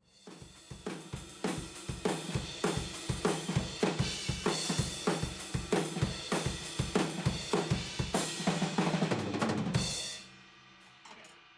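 Drum kit played hard: a busy beat of bass drum, snare and cymbals that swells in over the first couple of seconds, ends in a fast fill about nine seconds in, and stops suddenly about ten seconds in, leaving the cymbals ringing out.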